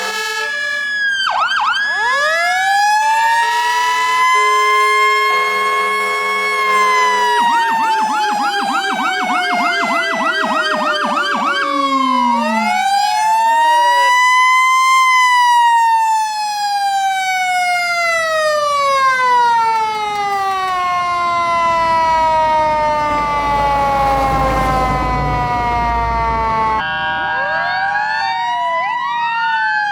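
Fire engine siren cycling through its tones: long rising and falling wails, a rapid yelp from about seven to twelve seconds in, and overlapping sweeps near the end. From about twenty seconds in a deep low rumble sits under the wail, the kind a Rumbler low-frequency siren gives.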